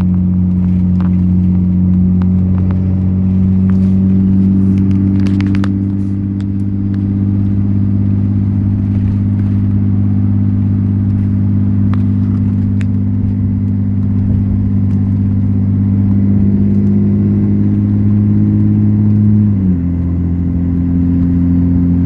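6.7 Cummins inline-six turbo diesel with a straight-pipe exhaust, droning steadily while the truck cruises. The pitch steps down about three-quarters of the way through as the revs drop.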